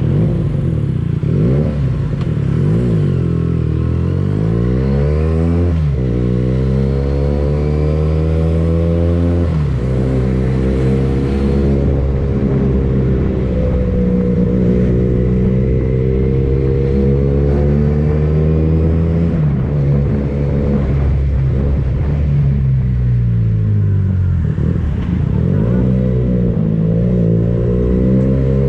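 Benelli TNT 249S motorcycle engine through a Tridente F22 carbon aftermarket exhaust, accelerating with the note climbing and then dropping sharply at two gear changes. It then holds a steady pitch for a long stretch before easing off and picking up again near the end.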